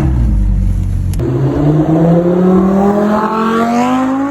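Car engine accelerating hard: after a short blip at the start, its pitch climbs steadily for about three seconds as it pulls through a gear.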